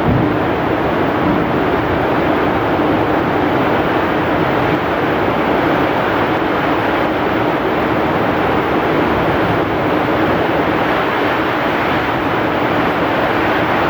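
Heavy rain with strong wind: a dense, steady roar of rainfall noise that carries on without a break.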